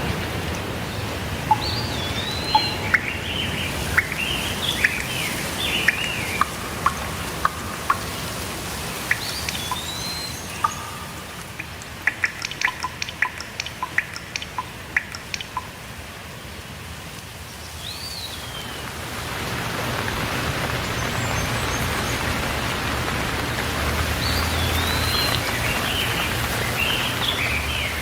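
Steady rainfall with songbirds singing and chirping, their notes gliding and repeating over the hiss of the rain. A run of quick sharp ticks comes about midway, and the rain hiss eases a little before swelling again.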